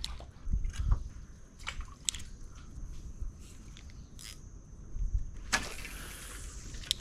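Clicks and knocks of a fishing rod and spinning reel being worked, with a rushing hiss about a second and a half long that starts sharply near the end and finishes on a click. A steady high insect whine runs throughout.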